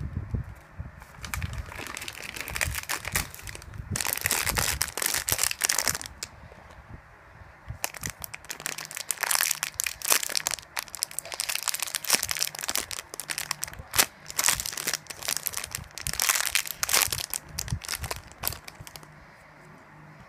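Packaging crinkling and crackling as it is handled and unwrapped, in irregular bouts with a short lull partway through.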